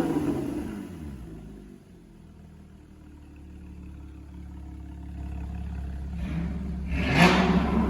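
Porsche Cayman GT4 flat-six, with an Innotech Performance Exhaust and its exhaust valve open, revved while parked. A rev dies away to a low idle over the first two seconds. About seven seconds in, a sharp blip rises and falls in pitch and is the loudest sound.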